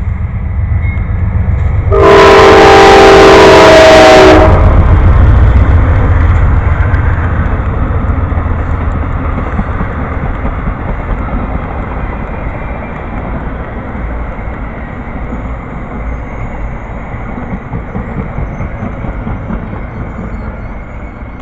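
Amtrak Silver Star passenger train passing slowly. Its horn sounds one loud chord for about two seconds, starting about two seconds in. The low rumble of the train on the rails then slowly fades.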